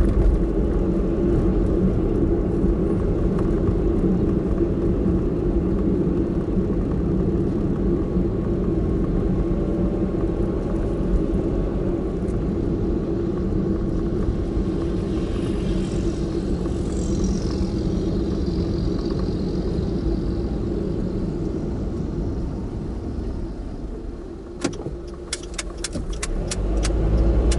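Car driving, a steady engine and road hum with no speech. Near the end it eases off and a quick run of sharp clicks comes, about nine in a couple of seconds, before the hum picks up again.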